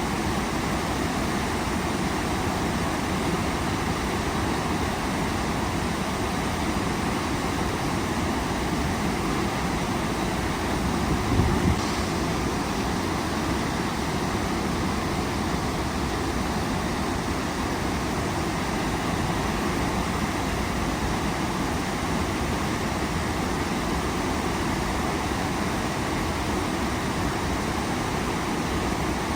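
Waterfall rushing: a steady, even roar of falling water. About halfway through there is a brief low thump.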